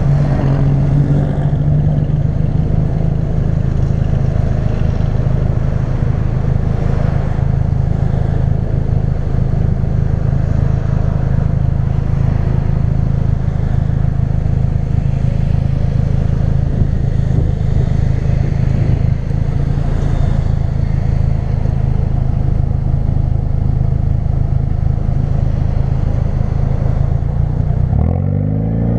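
2016 Ford Focus RS's turbocharged 2.3-litre four-cylinder running through a custom-fabricated exhaust, holding steady revs with a constant drone. About a second before the end the revs swing up and down.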